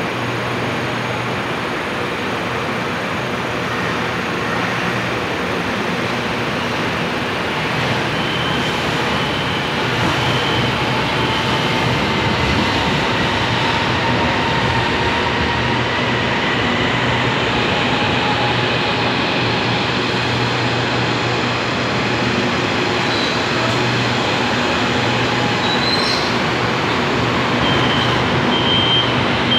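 A CSR Zhuzhou 'AMY' light-rail train pulls into the station and slows toward a stop. Its wheels rumble on the rails and its traction motors whine, the whine falling in pitch as it brakes. A brief rising squeal comes near the end, followed by a few short high beeps.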